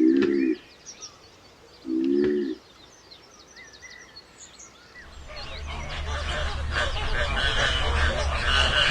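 Animal sounds: two short, low calls about two seconds apart over faint bird chirping. From about five seconds a louder, busier stretch builds up, with a steady low rumble and many overlapping calls.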